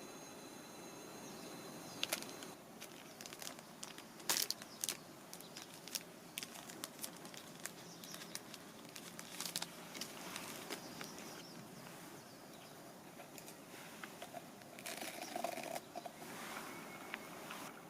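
Irregular clicks and crinkling handling noises, scattered through most of the stretch and thickest near the end, over a faint outdoor background.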